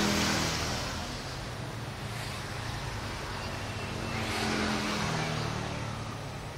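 Motor vehicles passing by, their engine noise swelling at the start and again about four to five seconds in, over a steady background hum.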